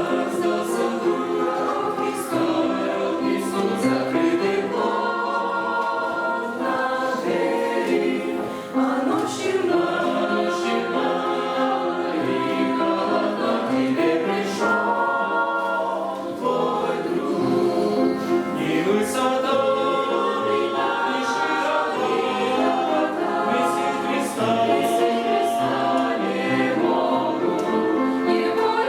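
A choir singing a song in several voices, with long held notes that change every second or two.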